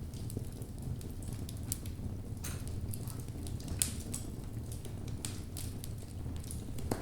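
Wood fire burning in a fireplace: a steady low rumble from the burning logs with scattered sharp crackles and pops, one louder pop just before the middle and another near the end.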